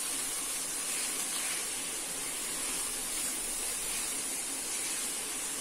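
Sautéed vegetables and grated boiled potato sizzling in a hot kadhai as they are stirred together with a spatula: a steady, even hiss.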